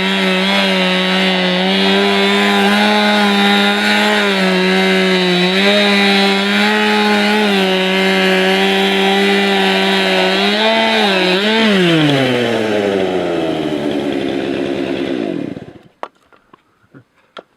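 Stihl MS291 two-stroke chainsaw in an Alaskan chainsaw mill, running at full throttle under load as it rips a lengthwise cut through a log. About eleven seconds in the engine revs up briefly as the cut finishes. The engine then winds down in a long falling pitch and stops.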